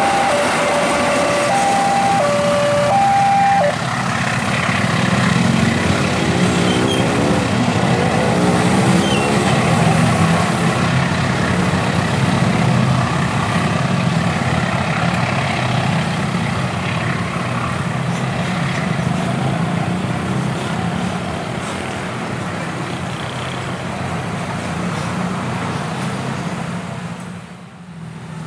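Level-crossing warning bell sounding in two alternating tones, which stops about four seconds in. A locomotive-hauled passenger train then passes the crossing with a steady low diesel engine hum and wheel and rail rumble, fading away near the end.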